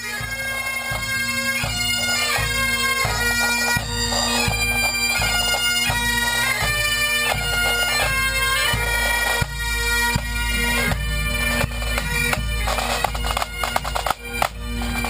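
Bagpipe music: a pipe tune over steady drones, with a regular low beat underneath.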